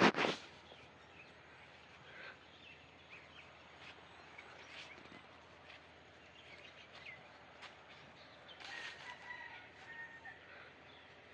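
Outdoor ambience with scattered faint bird calls and a longer bird call about nine seconds in. A brief loud noise comes right at the start.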